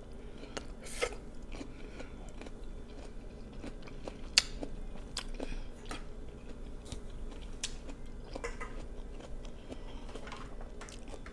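A person chewing a mouthful of crisp cucumber close to the microphone, with scattered soft crunches and wet mouth clicks and one sharper click about four seconds in.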